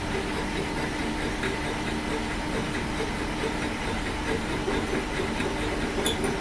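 Metal lathe running steadily, a constant machine hum and rumble with a steady low tone.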